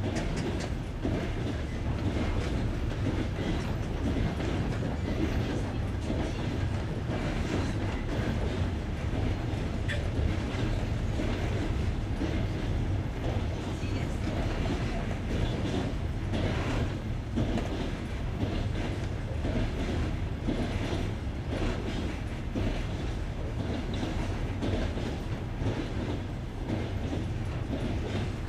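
Clickety-clack of a passenger train's wheels crossing the joints of jointed rails, over a steady rumble of the carriage running at speed, heard from aboard the train.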